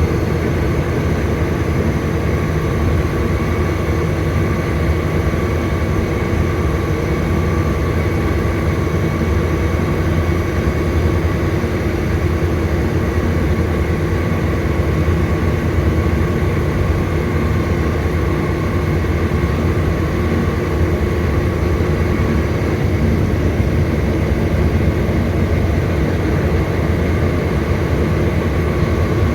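Volvo B9TL double-decker bus's diesel engine running steadily, with a thin, steady whine above the engine note.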